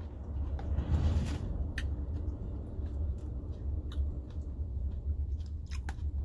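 Low, steady rumble of a nearby train pulling rail tank cars, with scattered clicks and knocks over it.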